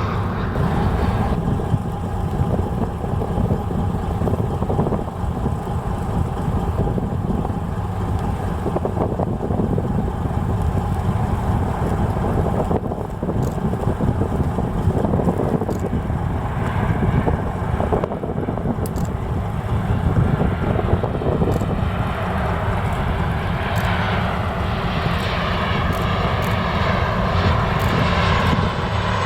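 Jet airliner on approach to land, its engine noise swelling over the last few seconds, over a steady low rumble.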